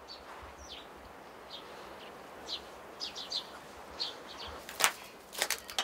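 Small birds chirping now and then over a faint outdoor background. A sharp click comes near the end, followed at once by a quick run of smaller clicks.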